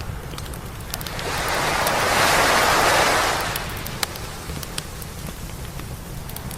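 A wave breaking and washing up the beach, swelling and fading over about three seconds, over the steady crackle and scattered pops of a wood campfire.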